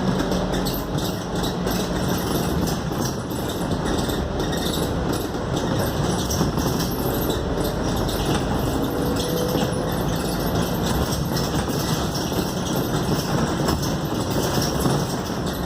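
Inside the cabin of a Scania K280UD double-decker bus under way: steady engine and road noise from its five-cylinder diesel, with a faint whine that slowly shifts in pitch.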